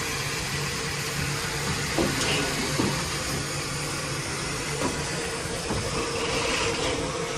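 Steam locomotive standing with a steady rumble and hiss, and a few short metallic clanks.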